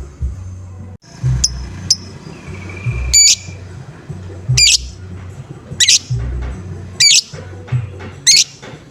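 Lovebird giving short, harsh squawking calls, about seven of them at roughly one-second spacing, over background music with a steady beat.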